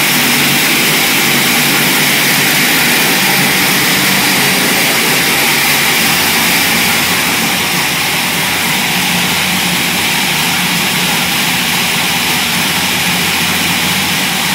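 Chevy V8 engine running steadily and evenly on an engine dyno, with a constant loud exhaust note that eases slightly about halfway through.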